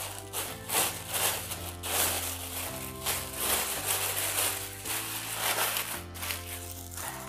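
Thin plastic shopping bag crinkling and rustling as it is crumpled and handled, over background music with slow held chords.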